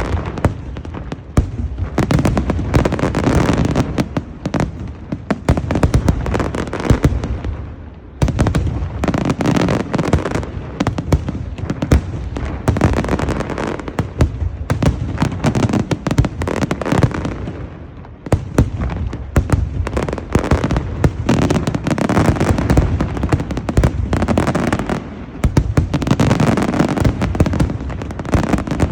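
Large fireworks display: a dense, continuous barrage of sharp cracks and deep booms. It eases briefly about eight seconds in and again around eighteen seconds, then builds back.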